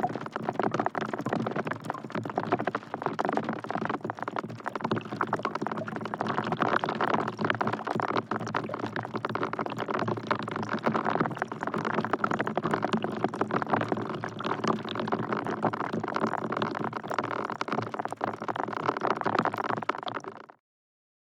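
Steady rain falling into a bucket, a dense patter of drops on water that cuts off suddenly near the end.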